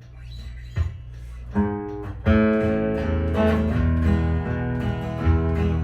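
Mitchell acoustic guitar playing an intro, a single note about a second and a half in, then strummed chords. A low knock comes about a second in.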